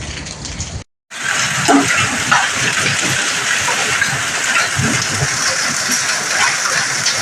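Storm downpour of rain and hail beating down: a dense, steady hiss that drops out briefly about a second in and then comes back louder and brighter.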